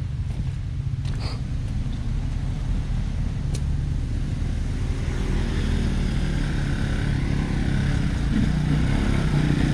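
ATV engine running, growing gradually louder through the second half, with a few faint clicks in the first few seconds.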